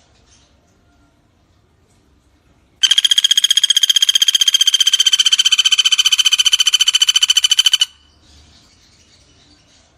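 Common flameback woodpecker (pelatuk bawang) giving one loud, fast rattling call that lasts about five seconds. It starts about three seconds in and cuts off near the end.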